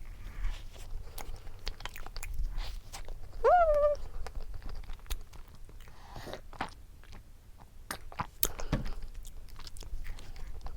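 Close-miked chewing and lip smacks of a person eating, with many small wet clicks. About three and a half seconds in there is a short hummed "mm" of enjoyment.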